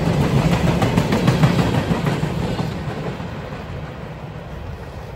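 Freight train of empty flatcars rolling past, steel wheels on rail with clicks over the rail joints about a second in. The sound fades from about halfway as the end of the train moves away.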